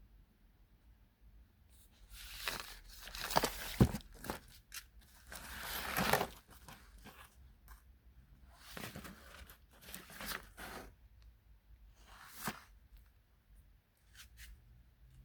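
Scraping, tearing noises in a series of irregular bursts, loudest about two to six seconds in, with a sharp knock near four seconds, then shorter scrapes later on.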